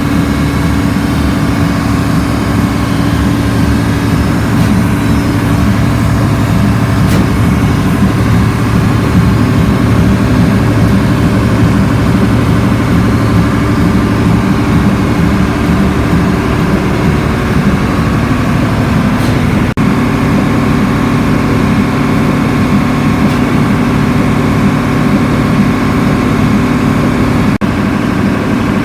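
Atlas Imperial marine diesel engine running steadily at a constant speed, a loud, even rapid firing beat with a steady hum beneath it. The sound dips for an instant about twenty seconds in and again near the end.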